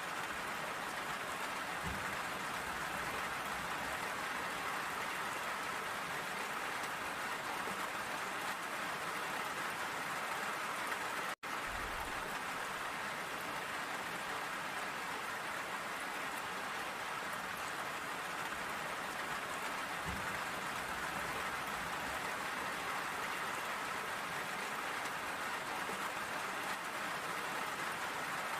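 Steady heavy rain falling, an even hiss of drops. It cuts out for an instant about eleven seconds in.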